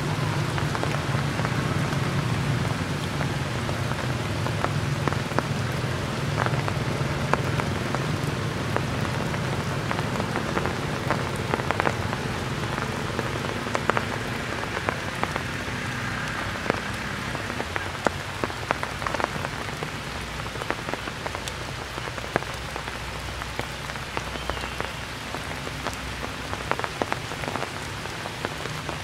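Steady rain falling, an even hiss dotted with many separate drop hits. A low steady rumble under it fades about halfway through.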